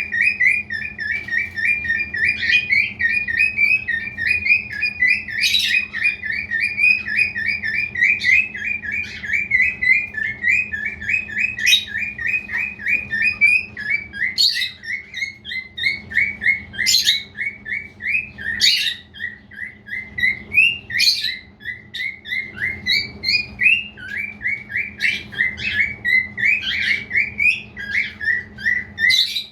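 Male cockatiel chattering: a continuous fast string of short, high chirps, several a second, broken every second or two by a sharper, louder call.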